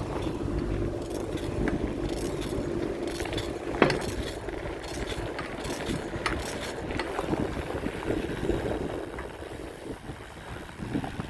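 Bicycle clicking and rattling while it is ridden: many small ticks and clicks, with one sharper clack about four seconds in.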